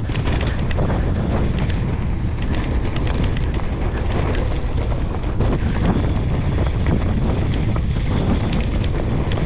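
Wind buffeting the camera microphone during a fast mountain-bike descent, a steady heavy rumble, with many small clicks and rattles from the tyres and bike on the rough trail.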